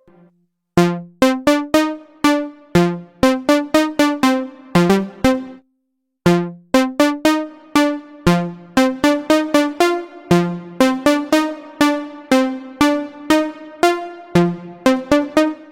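Waldorf Pulse 2 monophonic analog synthesizer playing a plucky preset as a fast repeating pattern of short notes, each sharply struck and quickly decaying. The pattern stops for about half a second around six seconds in, then starts again.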